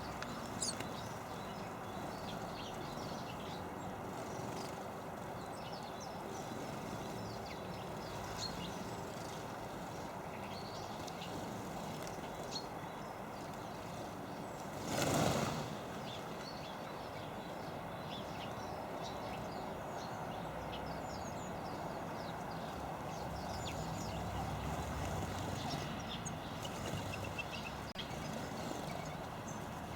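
Small garden birds chirping faintly and briefly here and there over a steady background hum. One short, loud whoosh comes about halfway through.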